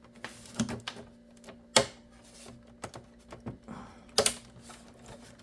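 Scattered sharp plastic clicks and knocks of parts being handled and pressed into place in a Dell Optiplex 9020 small-form-factor case during a CPU fan replacement, the loudest just under two seconds in and a quick pair just after four seconds, over a faint steady hum.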